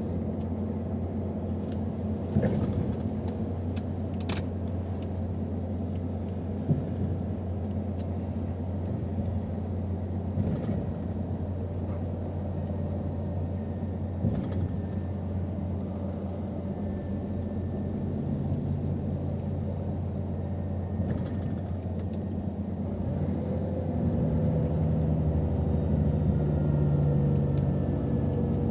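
Scania R500 truck driving on the road: a steady low engine drone with road noise and a few short knocks. Over the last few seconds the engine note comes up and grows louder.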